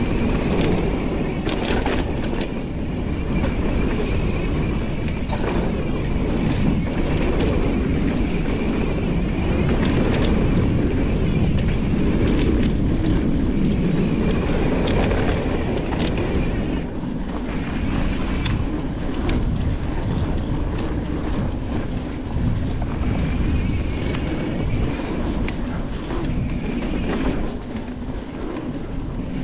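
Full-suspension mountain bike riding fast over a rough trail: steady tyre roar and rumble with frequent clattering knocks and rattles from the bike.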